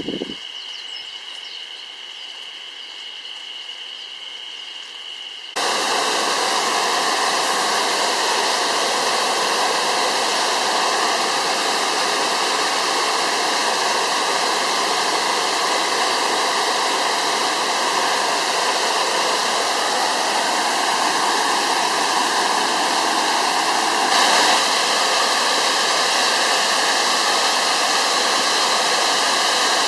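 Waterfall, a steady rush of falling water. It is fainter at first, then about five seconds in it abruptly becomes much louder and stays steady.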